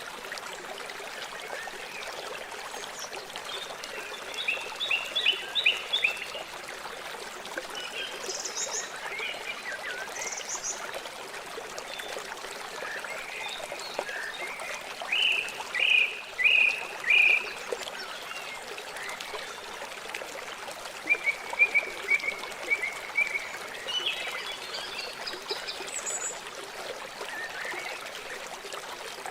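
River water flowing in a steady rush, with short runs of bird chirps over it several times, the loudest a few sharp chirps about halfway through.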